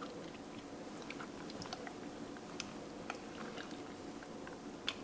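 Faint wet squishing and scattered light clicks of hands pushing a thick marinade under the skin of a raw whole chicken, over a steady low room hum.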